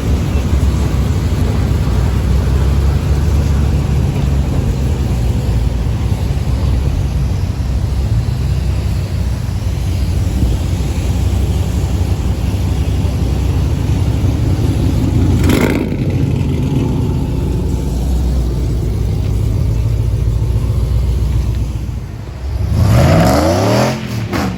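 Truck engine running steadily on the move, with road noise. There is a brief thump about fifteen seconds in, and near the end the engine revs up, its pitch rising.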